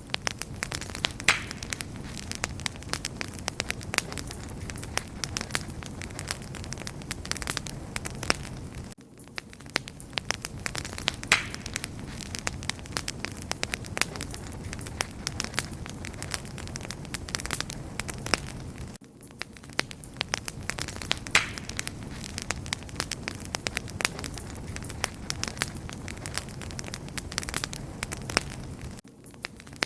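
Campfire crackling: a steady hiss thick with sharp, irregular pops and snaps, dipping briefly about every ten seconds.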